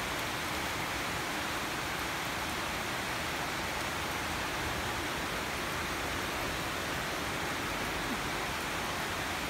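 Heavy tropical rain falling steadily, an even hiss of downpour with no let-up.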